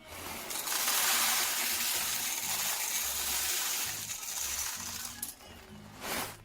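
De'Longhi Dinamica Plus espresso machine's built-in burr grinder grinding coffee beans, a loud crunching noise for about five seconds, with a short burst near the end. Background music plays underneath.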